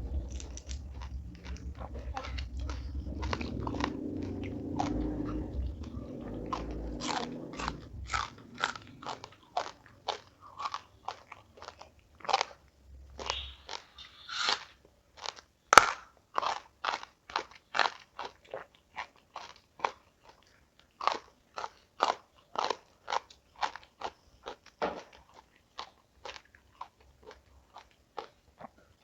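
Close-miked chewing of crunchy food: muffled chewing at first, then a steady run of sharp crunches, about two a second. The loudest is a crack about sixteen seconds in.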